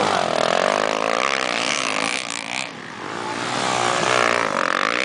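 Motocross motorcycle engines revving during a race, their pitch climbing and falling as the riders work the throttle. The sound briefly drops off a little past halfway, then builds again.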